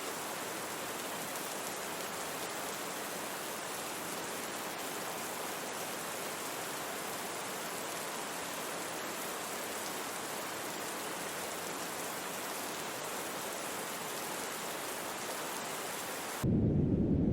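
Steady recorded rain, an even hiss. Near the end it cuts abruptly to a louder, low rumble of brown noise.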